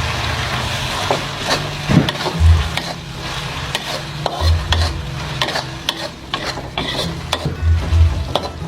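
Food frying in a pan with a steady sizzle while it is stirred, the utensil scraping and clicking against the pan many times.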